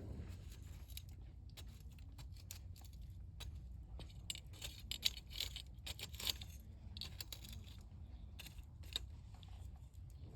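Wood campfire burning, crackling with irregular sharp pops and snaps over a low, steady rumble; the snapping is busiest around the middle.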